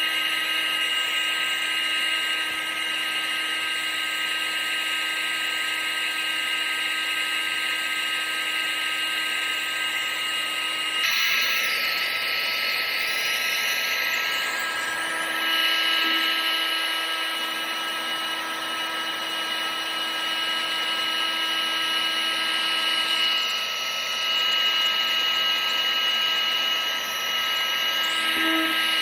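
Vacuum cleaner running steadily: a high motor whine over rushing air, with the pitch of the whine shifting slightly about eleven seconds in.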